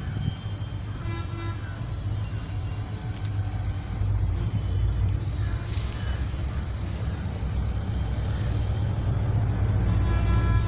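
An approaching Indian Railways electric-hauled express train: a low rumble that grows steadily louder, with short blasts of the locomotive's horn about a second in and again near the end.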